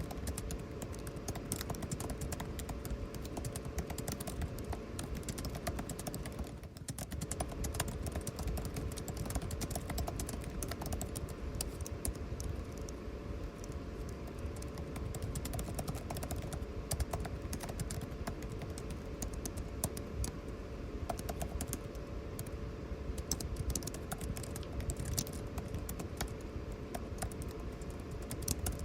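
Steady typing on a computer keyboard, fast irregular key clicks, over the constant hum of air conditioning.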